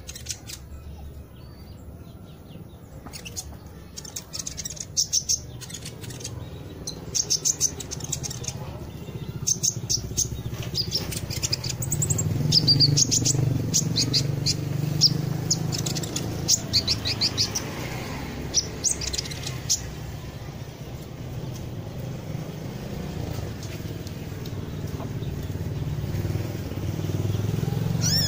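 Bird chirping in short, quick, high-pitched calls, many in a row, over a low rumble like a passing vehicle that swells around the middle.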